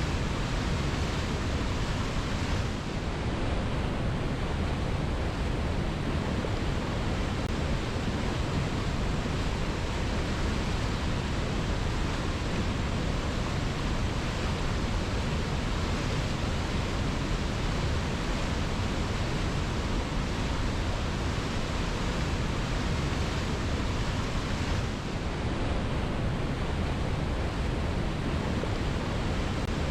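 Waterfall pouring steadily: a dense, even rush of falling water with no breaks.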